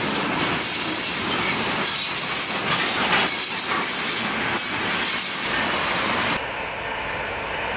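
Freight train tank cars rolling past close by: wheels running on the rails, with a high hissing wheel noise that swells and fades about once a second. The sound drops off about six seconds in, leaving a quieter, steady background.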